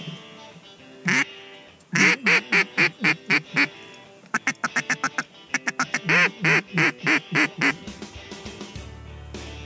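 A duck call blown close by in loud quacks: one quack, then several runs of quacks, one of them quick and clipped. Music comes in near the end.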